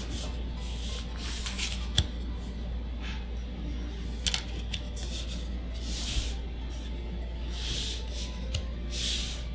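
Trading cards and booster-pack packaging handled up close: soft swishing and rustling strokes every second or so, with a few sharp clicks, the loudest about two seconds in, over a steady low hum.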